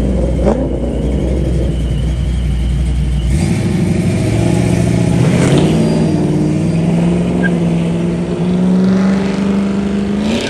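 Car engines rumbling at low speed, then from about four seconds in one engine's note climbing steadily as the car pulls away and accelerates.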